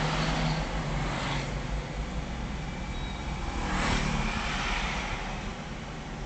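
Road traffic: a steady low engine hum with tyre and air noise, and vehicles swishing past about a second in and again near four seconds.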